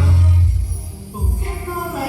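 Pop music playing loud over a venue sound system, with a heavy bass beat that drops away about halfway through and comes back near the end.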